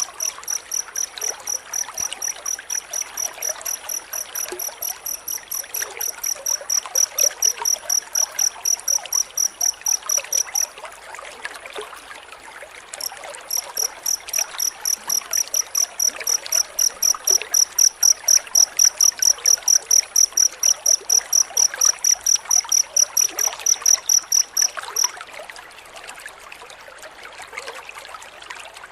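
Cricket chirping in a rapid, evenly spaced run of high-pitched pulses, pausing for a few seconds a little before halfway and stopping about four seconds before the end. A steady trickle of running water goes on underneath throughout.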